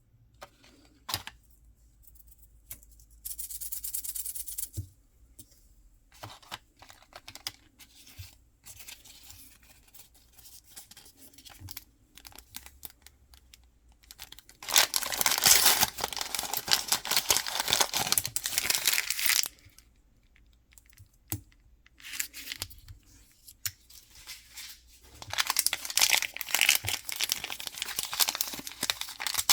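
Hands tearing open and crinkling mystery-box packaging, in bouts of rustling: a short one early, a long loud one past the middle, and another near the end, with scattered small clicks and taps between.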